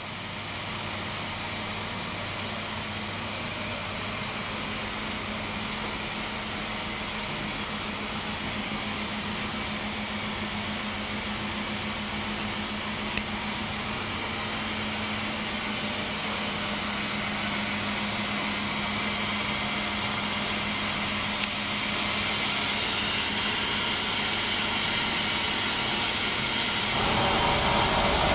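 Mazak VTC20C vertical machining centre running: a steady mechanical noise that grows slowly louder, with a low hum that fades out past the middle and a shift in the sound near the end.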